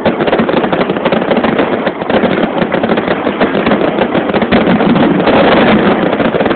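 Fireworks crackling and popping in a dense, continuous rapid rattle of small bangs.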